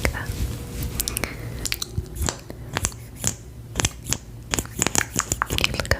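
Close-miked ASMR trigger sounds: an irregular run of sharp, crisp clicks and crackles, coming quicker in the second half.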